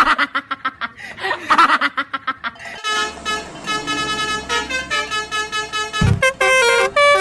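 Multi-tone bus telolet horn playing a tooting melody: quick short notes at first, then longer held notes, and a fast run of stepped notes near the end.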